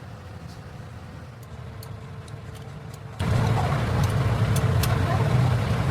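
A steady low rumble of a running vehicle engine. It jumps suddenly louder a little after three seconds in, with scattered faint clicks over it.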